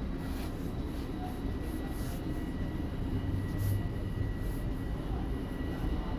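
Toronto subway Line 1 train heard from inside the car while running between stations: a steady low rumble with a thin, steady high tone over it.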